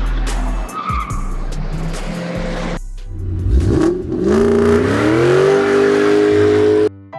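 Car tyre squealing and skidding. About three and a half seconds in, an engine revs up in a rising whine, then holds a steady high pitch until it cuts off suddenly near the end.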